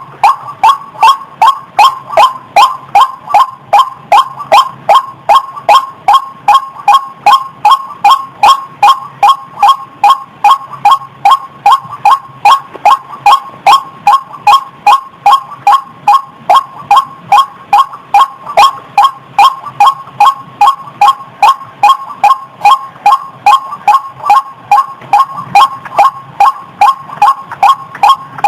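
White-breasted waterhen calling: a loud, unbroken series of rapid 'ruak' notes, about two to three a second, at an even pace.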